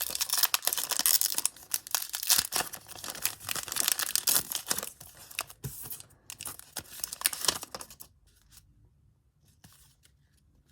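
A trading-card pack wrapper being torn open and crinkled, a dense crackling rustle that stops about eight seconds in.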